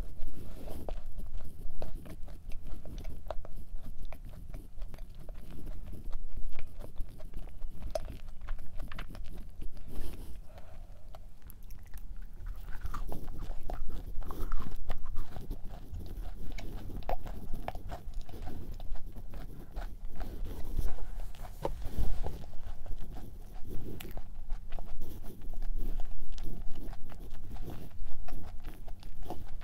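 Close-up chewing of a thick chocolate chip cookie with the mouth closed: soft, wet mastication broken by many irregular small crunches and clicks.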